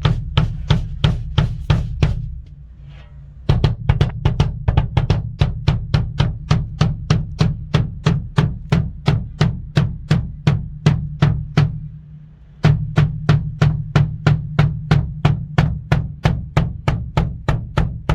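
Mapex Black Panther 14×4.5 snare drum struck with sticks in an even run of strokes, about four a second, pausing briefly twice.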